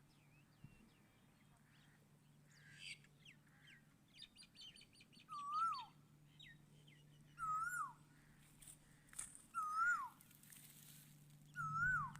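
Wild birds calling: one bird repeats a short whistled note that rises and then drops steeply, four times about two seconds apart, with faint high chirps and a quick trill from other birds around it. A faint steady low hum lies underneath.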